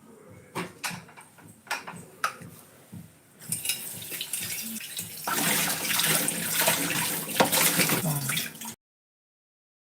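Running water, like a tap, starts about three seconds in after a few light knocks and becomes much louder a couple of seconds later. All sound cuts off abruptly near the end.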